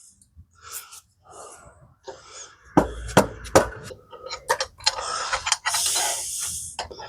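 Metal knocks and clicks as a mini bike's rear wheel, axle and brake caliper bracket are forced into place, with a longer hissing rush about five seconds in.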